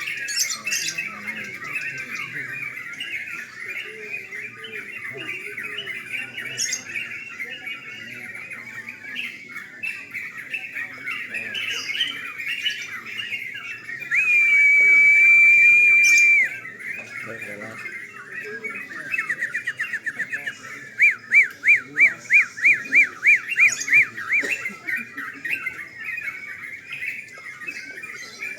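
Many caged yellow-vented bulbuls (trucukan) chattering and calling together. About halfway through, a loud steady whistle is held for two or three seconds; near the end comes a run of about a dozen quick, loud notes.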